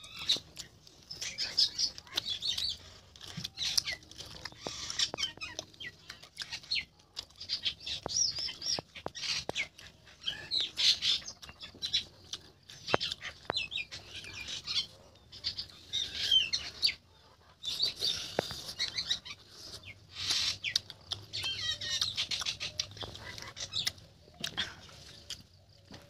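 Close-up eating sounds: wet chewing and lip smacking on rice and fish curry eaten by hand, coming in irregular bursts with sharp mouth clicks.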